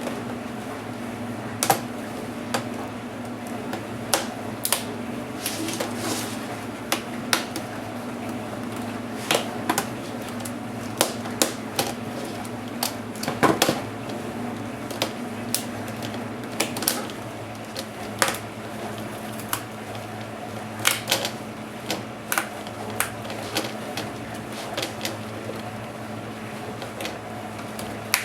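Irregular sharp clicks and light knocks of plastic and metal laptop parts being handled and prised apart while a Dell Inspiron 1525 is taken to pieces, with a cluster of louder clicks about halfway through, over a steady low hum.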